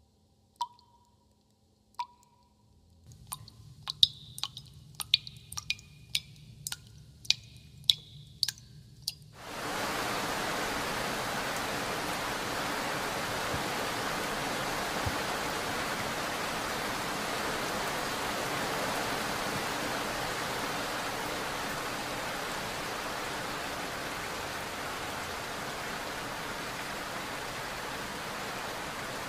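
Water drops falling into steel dishes in a sink, each a sharp drip with a short ringing ping: slow and single at first, then quicker and more frequent. About ten seconds in, a steady rush of water sets in and keeps going.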